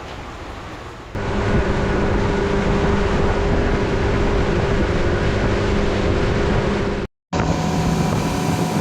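Boat engine running steadily under way, with rushing wind and water noise. It comes in abruptly about a second in, drops out to silence for a moment near the end, and returns with a slightly different pitch.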